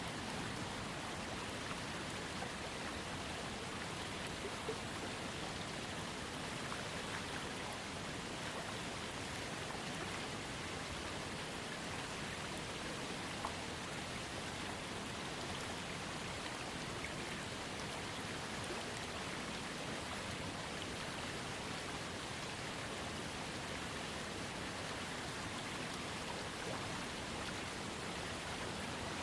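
Small waterfall on a trickling creek: water falling and splashing in a steady, even rush, with faint drips and ticks now and then.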